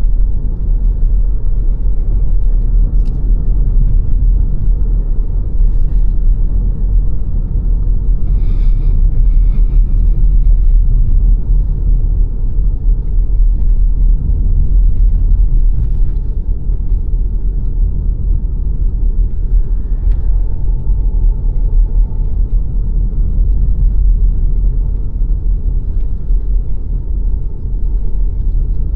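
Car driving along the road, a steady low rumble of tyre and engine noise that is heavy in the bass.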